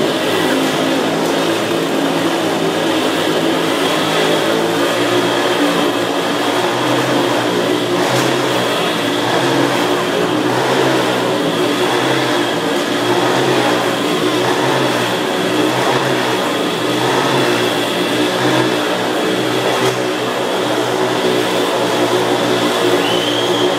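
Motorcycle engines running continuously and loudly, their pitch shifting up and down a little.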